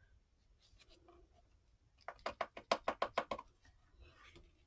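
A quick run of about ten light taps, two seconds in, lasting about a second and a half. They come from hand work on the craft desk.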